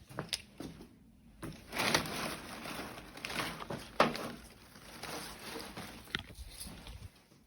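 Rustling and handling noises with a few sharp clicks, as bits of tie wire are searched out and handled.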